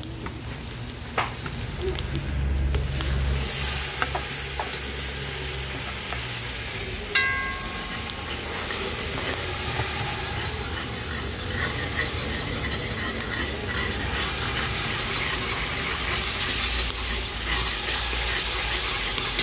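Curry frying in hot oil in a cast-iron karahi over a wood fire, a steady sizzle that grows louder a few seconds in, stirred with a wooden spoon. There is a short clink about seven seconds in.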